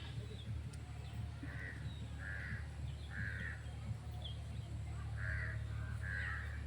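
A bird calling: five short calls spaced roughly a second apart, over a steady low rumble.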